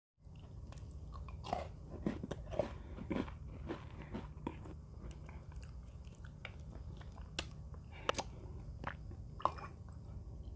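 Mini Oreo cookies being bitten and chewed close to the microphone: a quick run of crisp crunches in the first few seconds, then scattered crunches. A steady low hum runs underneath.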